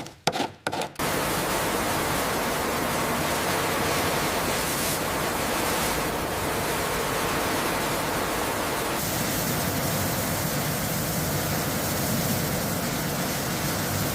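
Several quick rasping strokes in the first second, then a steady even hiss.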